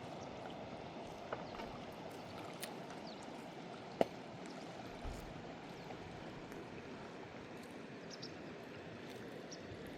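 Steady rush of running water, with a few small clicks and one sharp click about four seconds in.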